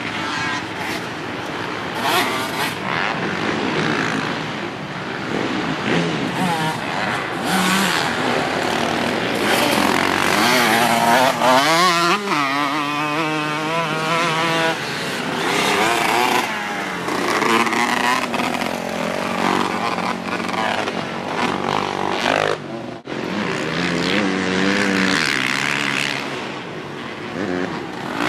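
Dirt bike engine running and revving as it is ridden, its pitch climbing and falling again and again, with a brief sudden dip about three quarters of the way through.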